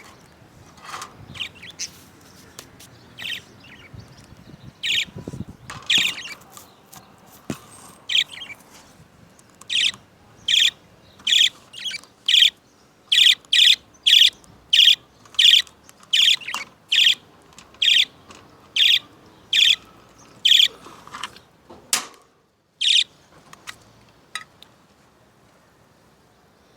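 Budgerigars chirping: scattered calls at first, then a run of loud, sharp chirps repeated evenly, about three every two seconds, for some ten seconds, fading to faint calls near the end.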